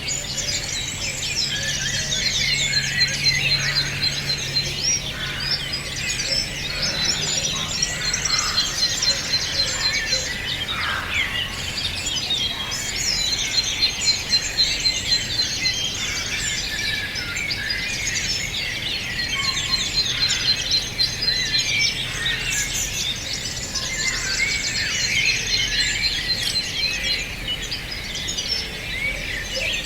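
A chorus of songbirds singing and chirping together, dense overlapping trills and chirps that never stop.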